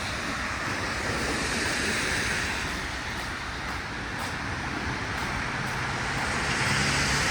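Street traffic on a wet road: a steady hiss of tyres on rain-soaked pavement that swells and eases as vehicles pass.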